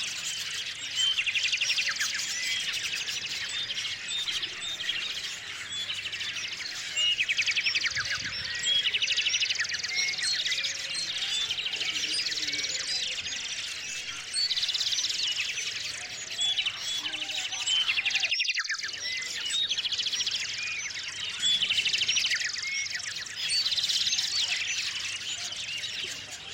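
A chorus of small songbirds chirping, with rapid trills repeating every few seconds over many short overlapping calls. The sound cuts out for a moment about two-thirds of the way through.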